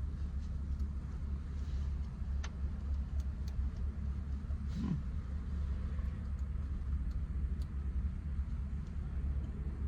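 A steady low rumble with a few faint, short clicks.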